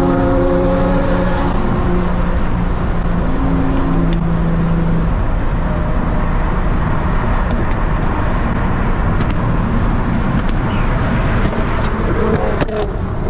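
Turbocharged Nissan 350Z's VQ35HR V6 running while the car is driven, holding a steady engine drone at constant revs for the first few seconds. After that it blends into a dense mix of engine and road noise without a clear pitch, with a couple of sharp clicks near the end.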